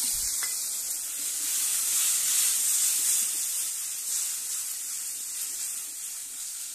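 Spice paste of turmeric, chilli, coriander and cumin powder mixed with water sizzling hard in hot oil in a kadai, just poured in and being stirred with a spatula. It is a loud steady hiss that eases a little toward the end.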